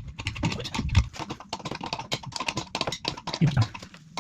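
A quick, irregular run of light clicks and taps from hands-on work, with a low knock about a second in and another near the end.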